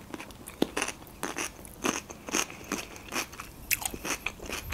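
Close-miked chewing of a mouthful of Greek salad: irregular crisp crunches and wet mouth clicks as fresh cucumber and tomato are bitten down, several times a second at an uneven pace.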